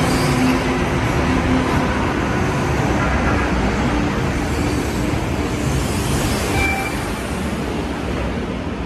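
MBTA Green Line light-rail train pulling out of an underground platform, its wheels and motors giving a steady rumble that slowly fades as the cars move away.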